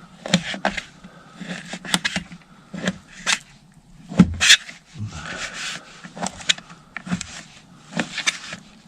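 Knife cutting walleye fillets into chunks: irregular taps and scrapes of the blade, repeating every half second to a second.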